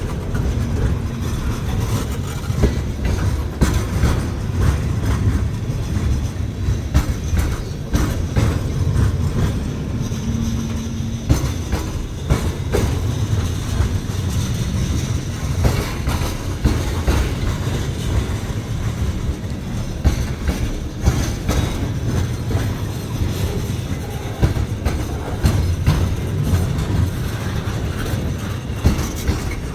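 Railcars rolling past on the track, the wheels clicking over rail joints over a steady low rumble.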